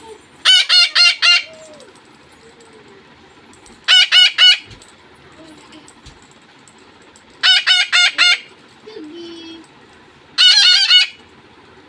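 Pet parrots screeching: four loud bursts of rapid, shrill repeated calls, four or five notes to a burst, about three seconds apart.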